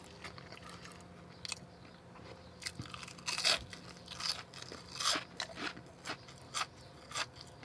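Crunchy bites and chewing of a crispy battered onion ring: a run of irregular, crisp crunches that starts about a second and a half in.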